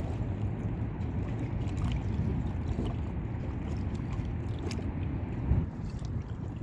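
Wind buffeting the microphone outdoors, a steady low rumble, with one brief knock about five and a half seconds in.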